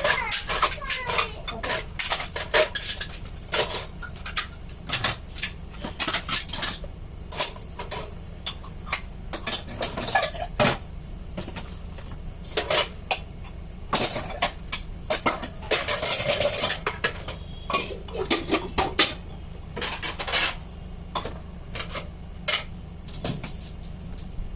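Dishes and utensils clinking and clattering, a long irregular run of sharp knocks and clinks as they are handled.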